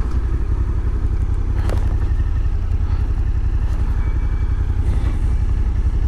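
Motorcycle engine running steadily, a constant low rumble with a couple of faint light clicks.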